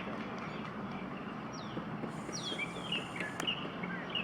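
Birds chirping: a handful of short, high calls that fall in pitch, about a second and a half in and again around two and a half to three seconds in, over steady outdoor background noise with a faint low hum.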